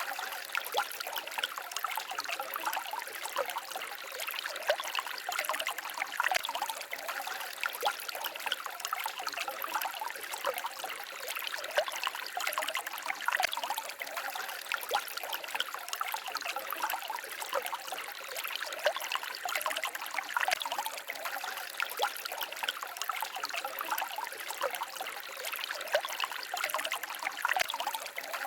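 Small forest stream trickling and babbling steadily over stones: a continuous bright splashing with little low rumble.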